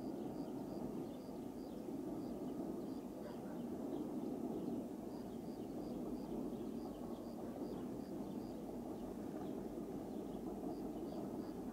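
A distant ADtranz DE2000 diesel-electric locomotive hauling passenger coaches along the mountain line, a steady low rumble of engine and wheels. Over it runs a faint, high, repeated chirp, about four times a second in runs.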